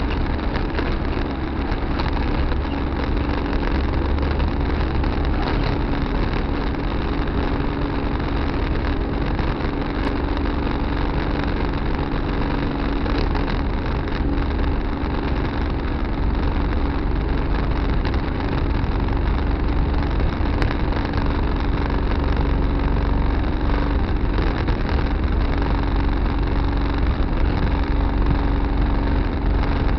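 Tractor engine running steadily under a constant low hum, with no change in speed.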